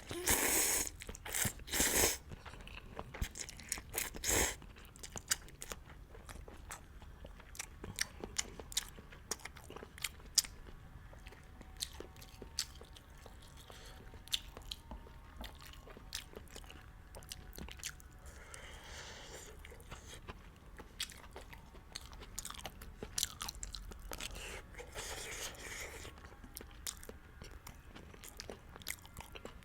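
Close-miked eating of beef hot pot noodles: a few loud slurps in the first few seconds, then chewing with many sharp wet mouth clicks and smacks, and two softer slurps later on.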